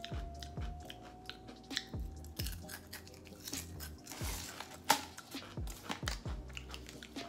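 Potato chips being crunched and chewed in the mouth, with a sharp snap about five seconds in, over background music with a steady, repeating beat.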